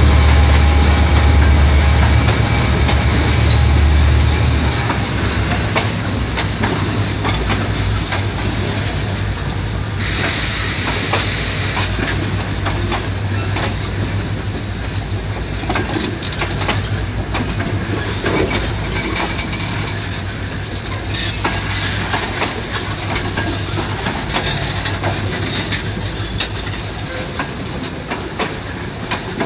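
Freight train wagons, most of them empty, rolling past: a steady rumble with wheels clicking over rail joints. A deep diesel locomotive drone fades out about four seconds in, and a hiss lasts about two seconds around ten seconds in.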